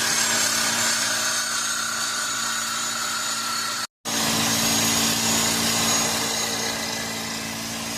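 A power tool running steadily at speed, loud and even, with a high whine, while working on the axle's U-bolts. It stops for a moment about four seconds in, then runs on.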